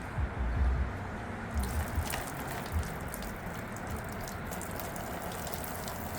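Water trickling and dripping out of a torn-down LQ9 engine, with a few dull low thumps in the first three seconds.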